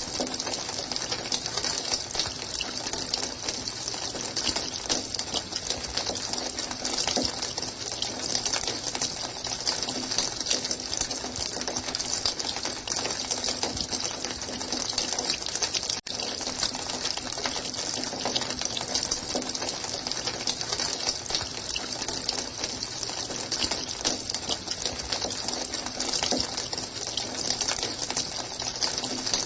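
Running water: a steady, even rush and splash with no change in flow, broken only by a momentary gap about sixteen seconds in.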